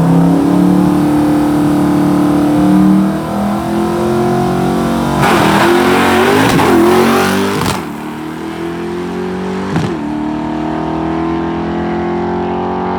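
A car engine at full throttle, its pitch climbing steadily and dropping back at the gear changes. A loud rushing noise swells through the middle.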